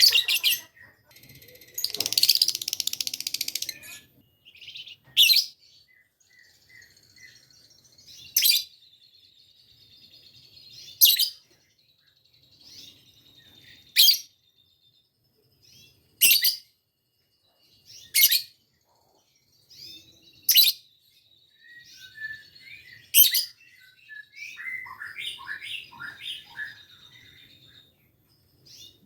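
Lovebird giving loud, shrill single chirps every two to three seconds, with a rapid chatter lasting a few seconds near the start and a quick run of falling notes near the end. It is a young lovebird not yet in breeding condition, practising its chattering 'ngekek' song.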